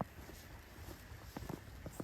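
Footsteps in snow: short, irregular steps, several a second, over a faint steady hiss.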